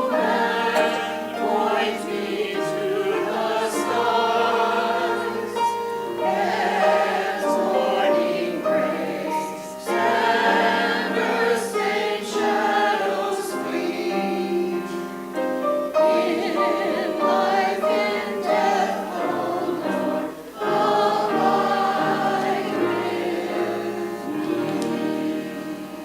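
A choir singing a sacred piece, several voices together, the music dying away near the end.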